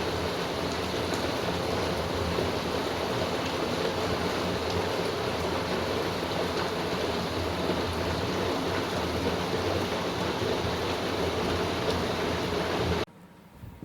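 Steady rain falling, an even hiss with faint scattered drop ticks, cutting off suddenly near the end.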